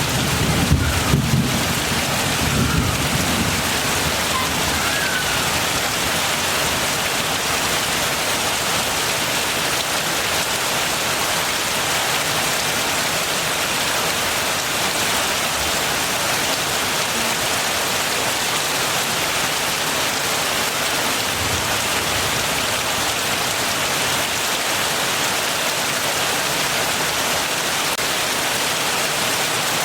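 Heavy rain falling steadily, with a low rumble of thunder that fades out over the first few seconds.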